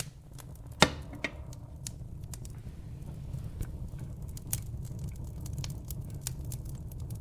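Wood fire burning in a fireplace: a steady low rumble of the flames with scattered sharp crackles and pops, the loudest pop about a second in.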